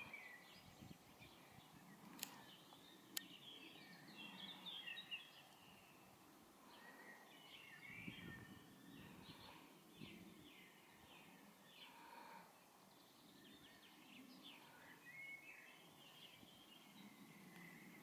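Faint birdsong: several small birds chirping and trilling in the background over a low outdoor hush. Two sharp clicks about a second apart come about two seconds in.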